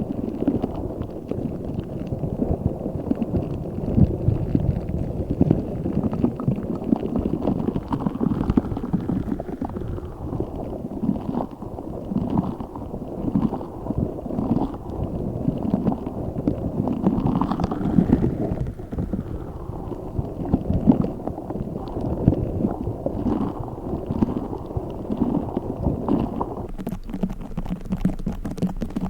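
A giant spiky orbeez-filled stress ball being squeezed and kneaded close to the microphone: a continuous run of low, wet squelching. Near the end it gives way to sharper, crisper crackles as play foam is handled.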